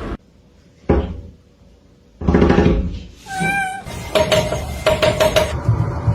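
A cat meowing: a loud call a little over two seconds in, then a wavering, pitched call, after a single sharp knock about a second in. Short repeated tones and clicks follow, with music in the mix.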